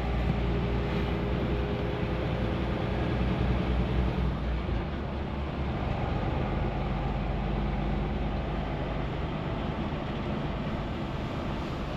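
Semi truck's diesel engine running with a steady low drone and road noise.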